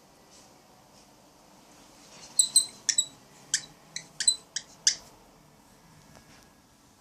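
Cockatiel giving a quick run of about nine short, sharp, high chirps over two and a half seconds, starting a little past two seconds in.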